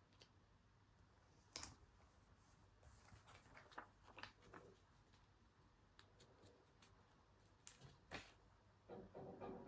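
Faint desk handling sounds of paper and stationery: scattered small clicks and brief rustles, with a longer rustle near the end.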